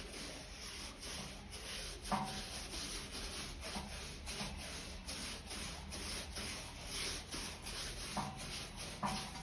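Brush rubbing rubber solution onto a truck tyre casing in quick repeated strokes, a steady scratchy scrubbing.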